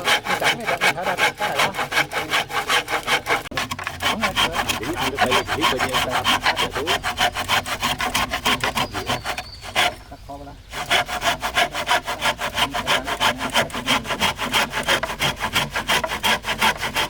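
Wood being sawn with fast, regular strokes, about five a second. They stop for about a second roughly ten seconds in, then go on.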